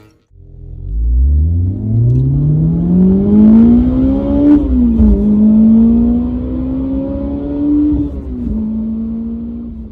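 Honda CBR250RR engine and exhaust accelerating hard. The pitch climbs steadily for about four seconds, drops at an upshift, climbs again and drops at a second upshift near the end.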